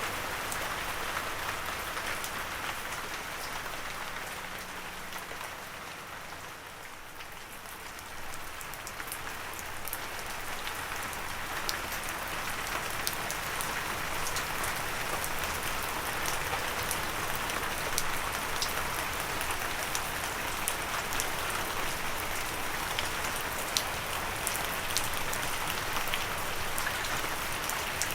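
Gentle rain falling steadily, with individual drops ticking sharply close by. It eases off for a few seconds about six seconds in, then picks up again.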